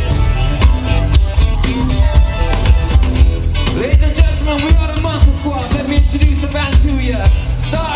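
Live band playing a song, with a steady drum and bass beat; a singer's voice comes in about halfway through.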